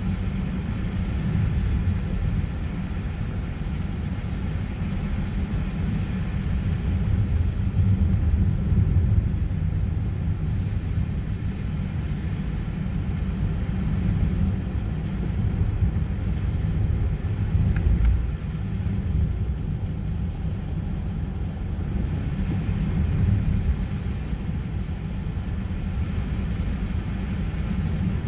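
Car driving at steady speed: a continuous low rumble of engine and tyre noise, with a few faint ticks.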